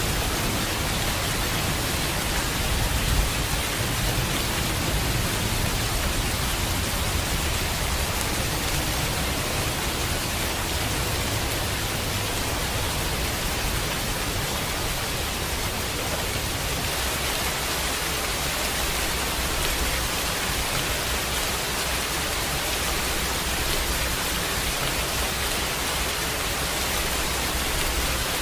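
Steady heavy rain hissing, with a low rumble of thunder in the first part that fades away about halfway through.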